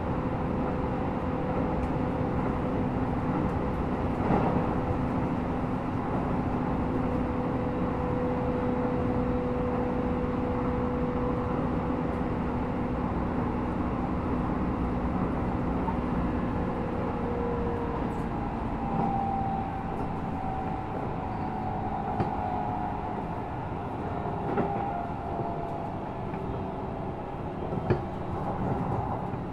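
Hokuso 7500 series commuter train running between stations, heard from inside a passenger car: steady wheel-and-track rumble under a steady motor whine. About two-thirds of the way through, the whine shifts to a higher tone that slowly sinks. A few short knocks come through along the way.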